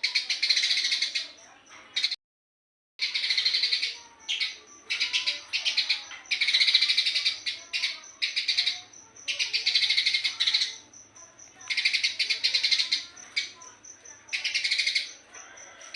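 Eurasian tree sparrow chirping fast and densely in bouts of a second or two with short pauses between them. About two seconds in, the sound cuts out completely for under a second.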